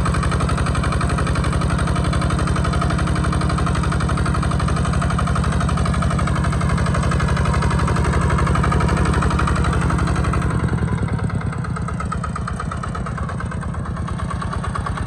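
Kubota RT120 two-wheel tractor's single-cylinder diesel engine running steadily with an even, rapid chugging beat. About ten and a half seconds in, it drops somewhat quieter and its low-end note changes.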